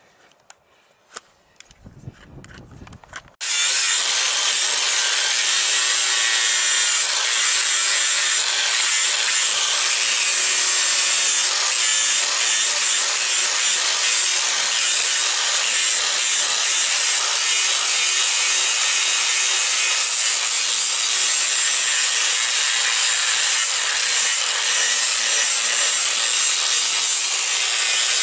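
Power grinder abrading a horse's hoof, a loud steady grinding that starts suddenly about three seconds in, after a few faint clicks.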